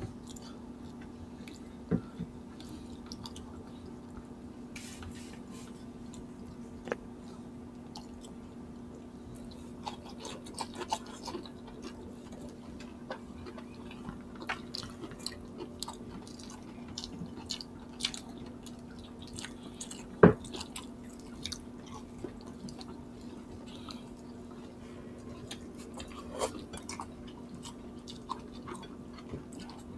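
Close-miked mouth sounds of people eating rice, chicken and long beans by hand: wet chewing and smacking with scattered small clicks. A sharp knock about twenty seconds in is the loudest sound, over a steady low hum.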